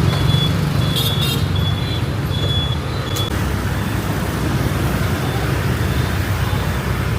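Steady street traffic of many motorbikes running past close by, a dense low engine rumble. A thin, high on-off tone sounds through the first few seconds, with a brief clatter about a second in.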